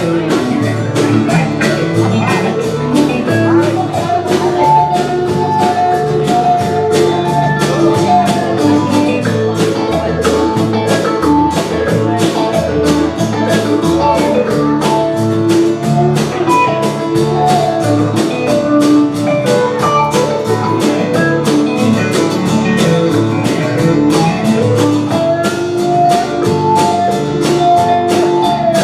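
Live band playing a tune on guitars, bass guitar and drum kit, with a steady beat.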